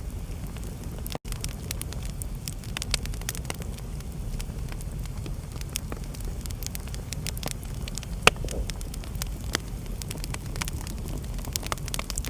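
Wood fire burning in a fireplace: a steady low rumble with irregular crackles and snaps throughout, and one sharp louder pop about eight seconds in. The sound drops out for a split second just after the first second.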